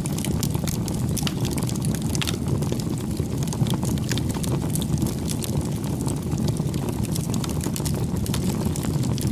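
Campfire burning: a steady low rumble of flames, with frequent sharp crackles and pops from the burning wood.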